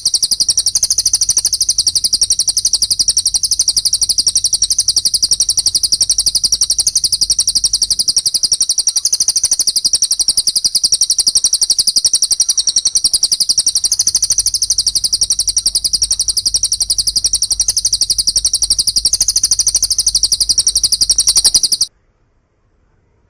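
Recorded songbird calls: a dense, high-pitched chatter of very rapid repeated notes. They cut off abruptly about 22 seconds in.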